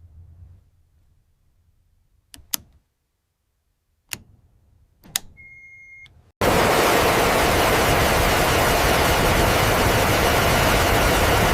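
A few faint clicks and a short steady high tone, then, about six seconds in, a sudden loud hiss of static that holds steady.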